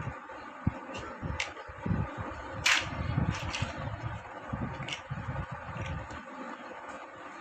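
Plastic building bricks being handled and pressed together: scattered sharp clicks, the loudest about two and a half seconds in, over soft low knocks from handling, with a steady faint hum underneath.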